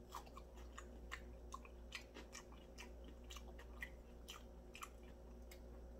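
A person chewing a mouthful of crispy fried chicken drumstick, with a run of faint, irregular crunches.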